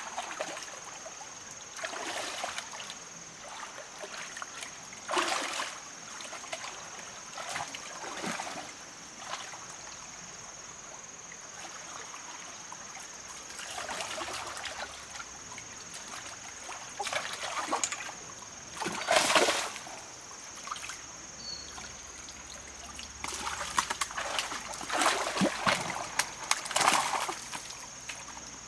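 Water splashing and sloshing in irregular bursts, the loudest about two-thirds of the way through, over a steady high-pitched whine.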